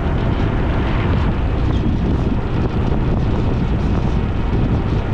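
Steady wind rush buffeting the microphone, mixed with road and vehicle noise, while riding along a road.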